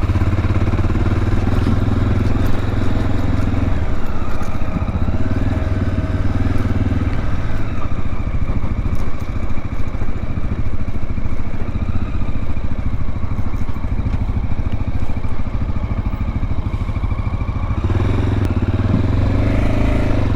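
Dual-sport motorcycle engine running while being ridden, its pitch rising and falling with the throttle.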